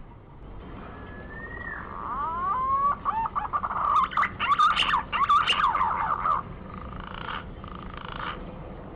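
Green pigeon (Treron) giving its whistled song: a lone rising-and-falling whistle, then a run of gliding notes that builds to a louder warbling phrase from about four to six seconds in, with two shorter calls after.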